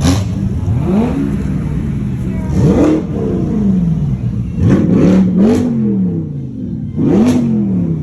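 Car engine revved repeatedly, about five quick throttle blips, each rising sharply in pitch and falling back.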